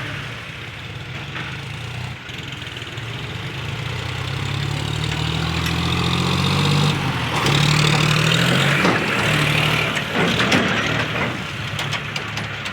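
Tractor's diesel engine running. It revs up and grows louder from about four seconds in, then drops back after about nine seconds.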